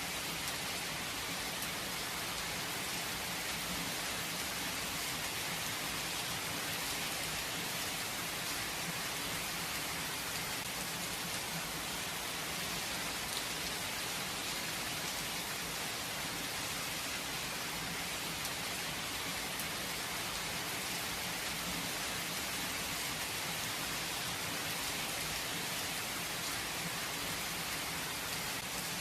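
Steady rain falling, an even hiss with fine drop patter, no thunder.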